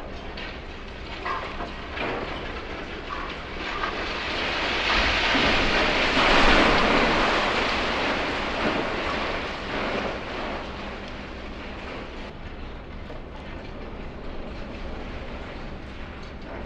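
Concrete and masonry crashing down from a building being demolished by a high-reach excavator: a few knocks, then a rumbling rush of falling rubble that swells to a peak about six seconds in and dies away over several seconds. The steady low hum of the machinery runs underneath.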